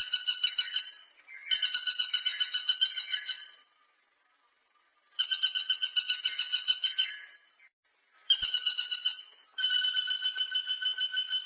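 Woodpecker calling: a rapid rattle of high, evenly repeated notes, about seven a second, given in bouts of one to two seconds with short pauses between them.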